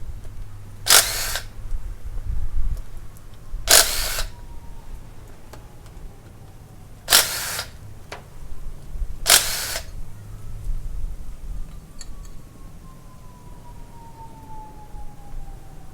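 A power tool run in four short bursts of about half a second each, a few seconds apart, over a low steady hum.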